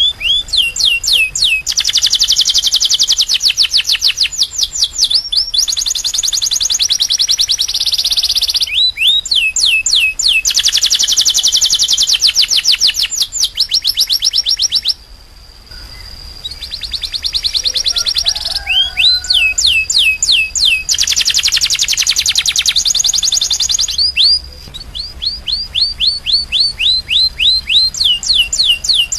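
Domestic canary singing: long phrases of rapid, repeated downward-sweeping notes alternating with fast trills, with a short pause about halfway through.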